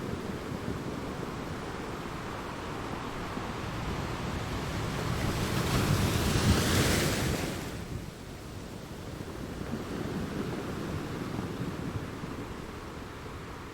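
Ocean waves breaking on a shore: a steady low rumble of surf, with one wave building to a loud hissing crash about six seconds in and draining away after.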